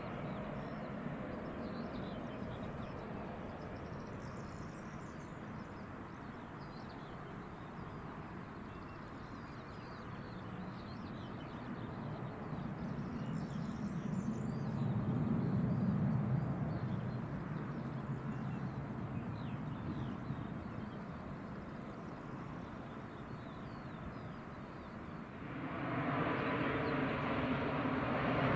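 Open-air ambience with small birds chirping and a distant low rumble that swells about halfway through and fades. Near the end, an aircraft's engines rise suddenly and stay loud, with a steady whine.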